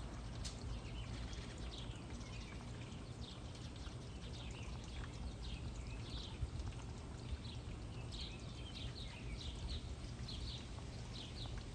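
Small songbirds chirping, with many short high calls coming quickly and more often in the second half, over a steady low background rumble.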